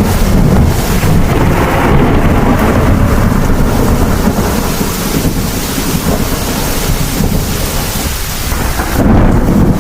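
Heavy thunderstorm: thunder rumbling over steady heavy rain, easing a little midway and swelling again near the end.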